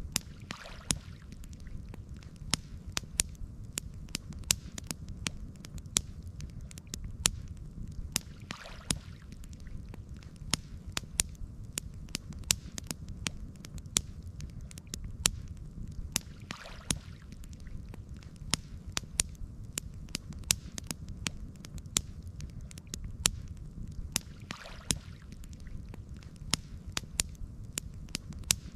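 Campfire crackling: frequent sharp pops and snaps over a steady low rumble, with a faint soft whoosh about every eight seconds.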